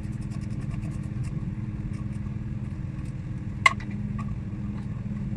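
A car engine running steadily at an even pitch, with a single sharp click about three and a half seconds in.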